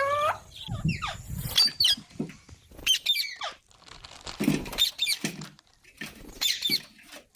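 Pet green parrot giving a string of short, high-pitched chirps and squawks, one every second or so.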